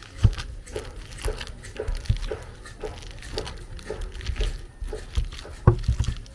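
Cooked plantain being mashed: soft, regular thuds about twice a second as the tool presses into the soft plantain.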